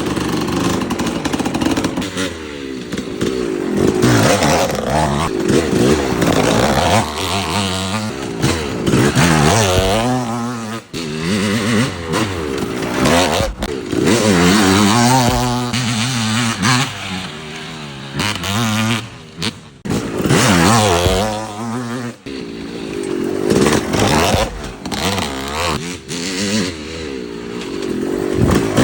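Suzuki RM250 two-stroke dirt bike being ridden, its engine revving up and dropping back again and again as the throttle is opened and closed, with a few brief drops off the throttle.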